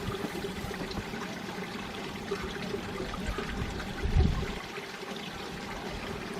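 Mountain valley stream flowing steadily over rocks, an even rush of water with trickling, and a brief low rumble about four seconds in.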